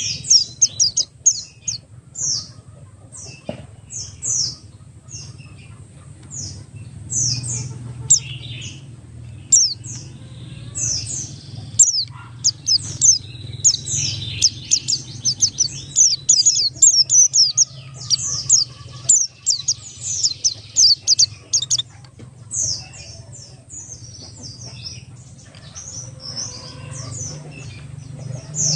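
Buxtoni-type white-eye (pleci) singing a long, rapid run of short, thin, high notes that slur downward, in dense bursts with brief breaks; the song thins out near the end. A faint steady low hum lies underneath.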